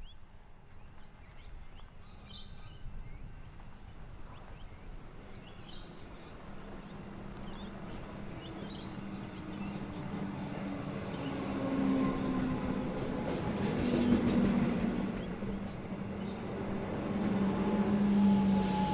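Comeng electric suburban train approaching and running into the station platform, its rumble and a low steady hum growing louder through the second half. Birds chirp in the first few seconds.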